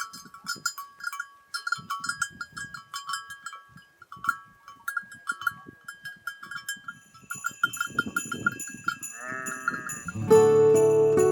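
Bells on grazing livestock clinking irregularly at two pitches, with soft low knocks beneath, and a short bleat about nine seconds in. About a second before the end, louder sustained background music comes in and becomes the loudest sound.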